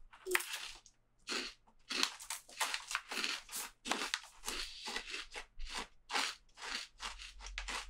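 Mouthful of crunchy keto cereal being chewed: a steady run of dry crunches, about three a second.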